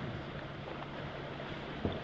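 Water rushing and bubbling along the hull of a sailboat under way, with a steady wash of wind. A single knock sounds near the end.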